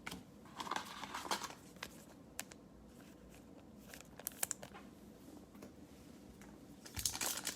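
Faint rustling and light clicks of basketball trading cards being handled and flipped. Near the end, the plastic wrapper of a cello pack starts to crinkle.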